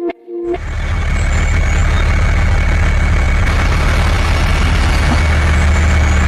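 Engine running steadily with a deep, even rumble and a faint high whine, starting about half a second in as music breaks off.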